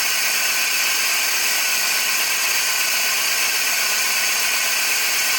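Toyota Vitz turbo engine running at fast idle just after a cold start. Its noise is mostly a steady hiss of air rushing through the throttle body and intake manifold.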